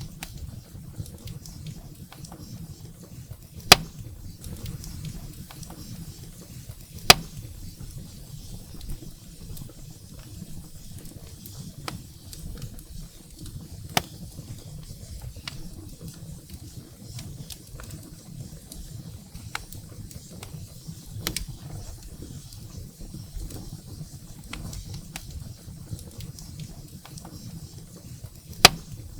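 Wood fire burning in a fireplace: a low steady rumble of flames with frequent small crackles of firewood and a few sharp, loud pops, the loudest about 4 and 7 seconds in and near the end.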